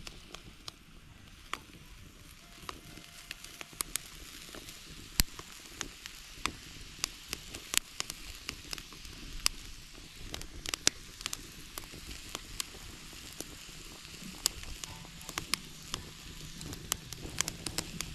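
Clams sizzling in a hot frying pan: a steady sizzle broken by frequent irregular sharp pops and crackles.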